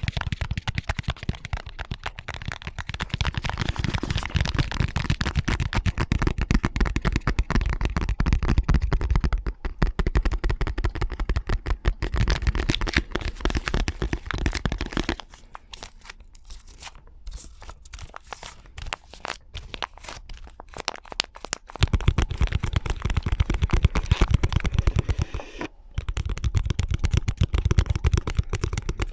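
Rapid, dense ASMR tapping: fingernails tapping on objects in quick clicking strokes. Quieter, sparser tapping from about 15 to 22 seconds in, then the dense tapping returns after a brief break.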